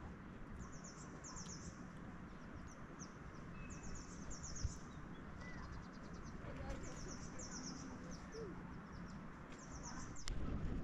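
A songbird calling in short bursts of rapid high notes, repeated several times, over a steady outdoor hiss. A single knock sounds about halfway through.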